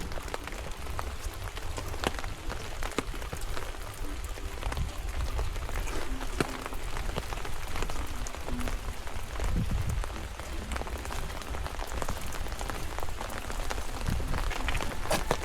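Rain falling, with individual drops ticking sharply and irregularly over a steady patter, and a low rumble underneath.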